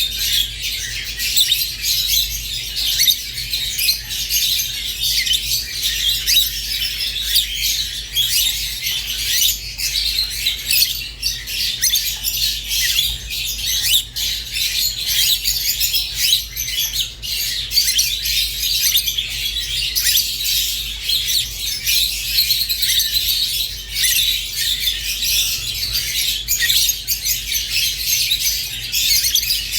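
A group of rosy-faced and Fischer's lovebirds chirping and chattering without pause, dense high calls overlapping throughout, over a steady low hum.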